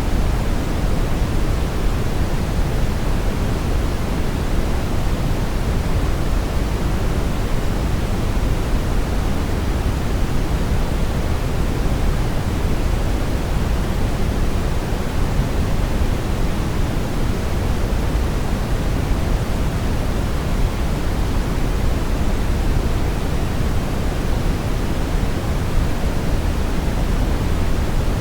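Synthetic brown noise: a steady, even rumble-like hiss with most of its energy in the low end, unchanging throughout.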